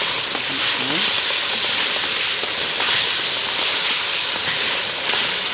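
Chicken frying in a pot over a wood fire: a steady, loud sizzle.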